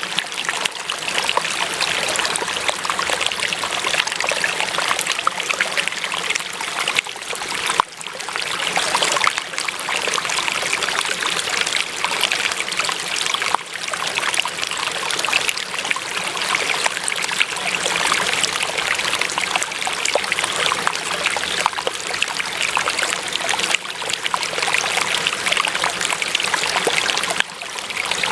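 Running water of a small stream, trickling and gurgling steadily, with a few brief dips in level.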